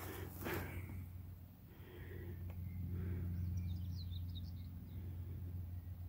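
A small songbird gives a quick run of short, high chirps about three and a half seconds in, over a steady low hum.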